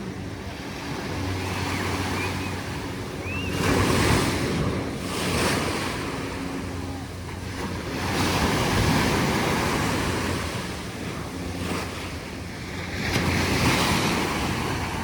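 Choppy ocean waves breaking and washing in the surf, the wash rising and falling in several surges, with wind buffeting the microphone.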